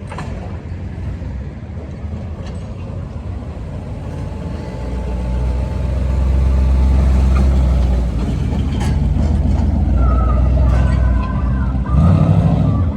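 Car engine running with a deep, low exhaust rumble that swells about five seconds in, eases around eight seconds, and swells again near the end.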